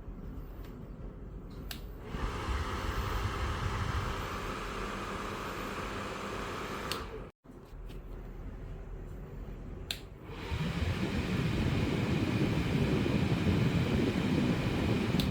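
Ryobi ONE+ 18V Hybrid Whisper Series 7-1/2 in. fan switched on with a click and running steadily with its motor shaft freshly lubricated with WD-40, no grinding heard. About ten seconds in there is another click and it runs louder.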